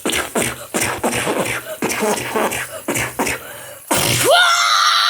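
A child's voice making quick, wordless vocal noises and mouth sounds, then a long high-pitched squeal that rises and holds from about four seconds in.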